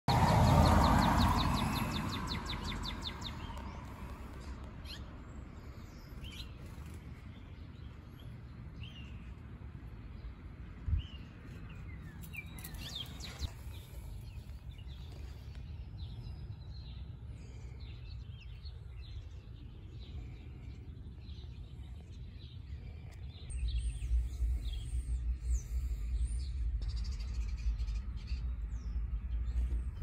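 Wild birds chirping in short, scattered calls. A louder sound at the very start fades over the first three seconds, and a low rumble joins about three-quarters of the way in.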